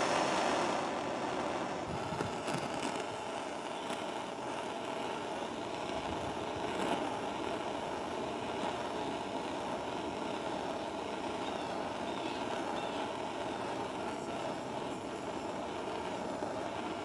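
Handheld blowtorch flame burning steadily as it is swept over faded plastic, a continuous even hiss, slightly louder in the first second.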